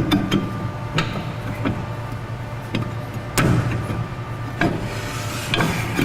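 Scattered sharp metal knocks and clanks from hand work on a truck's rear drum brake assembly, about seven spread unevenly over the few seconds, over a steady low hum.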